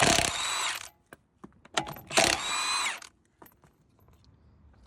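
Air or electric impact gun with a 17mm socket undoing a car's wheel bolts in two bursts, each about a second long and a second apart, its whine falling in pitch as each burst stops. A few light clicks follow.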